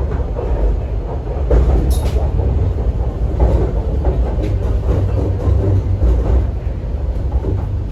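MTR C-train electric multiple unit running, heard from inside the car: a steady low rumble with occasional clicks and knocks from the wheels over the track.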